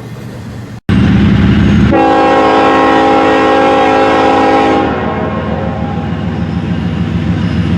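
Train horn blowing one steady chord for about three seconds over loud diesel locomotive running noise, then stopping as the engine and train rumble carry on.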